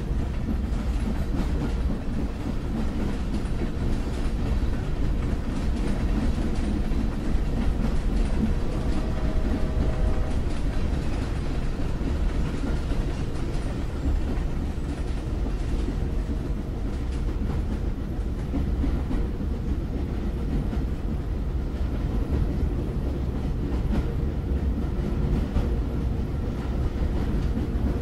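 Train running along the track after leaving a station: a steady low rumble.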